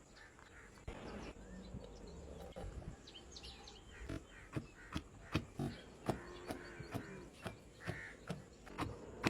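A run of short, sharp clicks and knocks, about two a second, begins about four seconds in, over a low background hum. Faint bird chirps are heard near three seconds.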